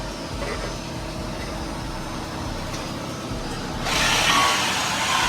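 Car engine running with a steady low rumble; about four seconds in a loud hiss starts suddenly and keeps going.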